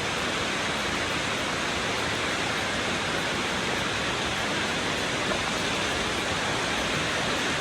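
Cascading water of a waterfall rushing steadily, close by.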